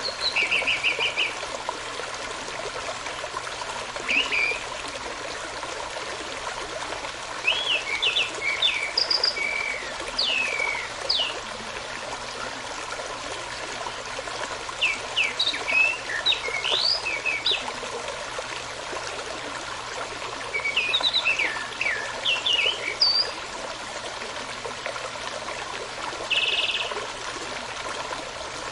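A brook running steadily, with songbirds singing short phrases of quick chirps and whistles every few seconds over the water.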